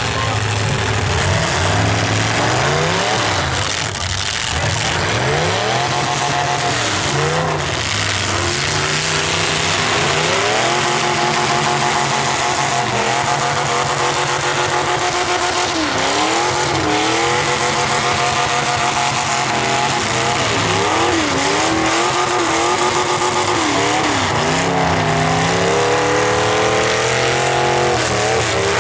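Engines of several full-size stock demolition derby cars revving up and down over one another, with a few sharp knocks.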